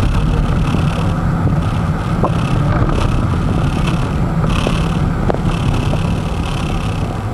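Motor vehicle engine running steadily, a low drone with a few faint clicks over it.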